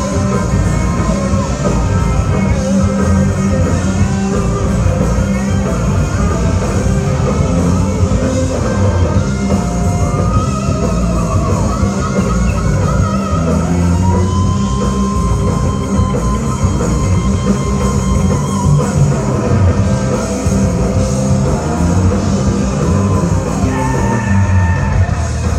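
Loud rock music with a sung vocal, electric guitar and drum kit.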